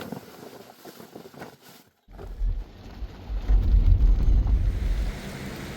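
Wind buffeting the microphone outdoors, a loud, gusting low rumble that starts abruptly after a brief silence about two seconds in; before that a fainter stretch of outdoor noise.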